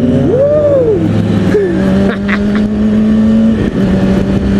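2003 Kawasaki ZX-6R 636's inline-four engine running under way, heard over wind noise. Its pitch shifts as the throttle changes, and a brief rising-then-falling whine comes about a third of a second in.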